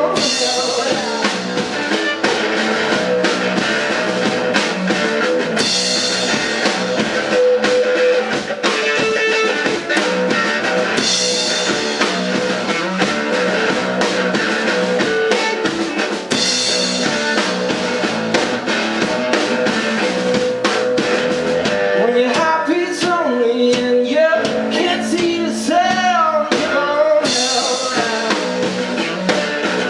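Live rock band playing: electric guitar and drum kit with a sung vocal. Cymbal crashes land about every five and a half seconds.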